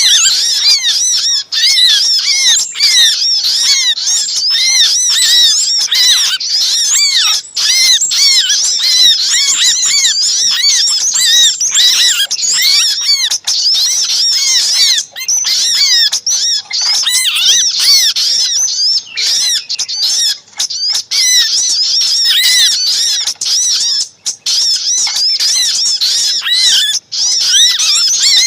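Bird-lure recording of small songbirds: a dense, continuous chorus of rapid, high, overlapping chirps and chattering alarm calls from a noisy flock, mixed with the calls of a trapped bird. It is played to draw wild birds in close.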